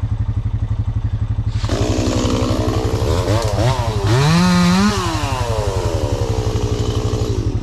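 A Honda Rancher ATV engine idling with an even, steady beat, joined about two seconds in by a louder small engine revving up and down with noisy crashing, its pitch falling away over the last couple of seconds.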